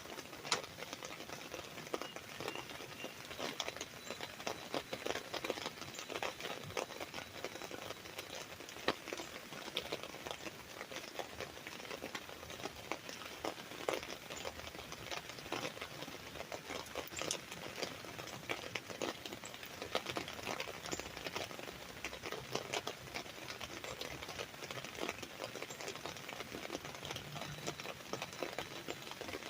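Rain falling on an umbrella: a steady patter of drops hitting the canopy, with scattered louder individual drops.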